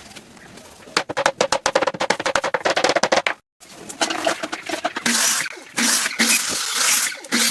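Wood being worked by hand: a fast run of sharp knocks, about eight a second. It breaks off abruptly and is followed by a series of rasping strokes, each about half a second long.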